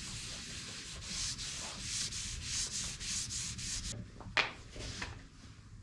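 Hand rubbing food-grade mineral oil into a wooden surface, a quick back-and-forth rubbing at about two to three strokes a second. It stops abruptly about four seconds in, followed by a couple of light knocks.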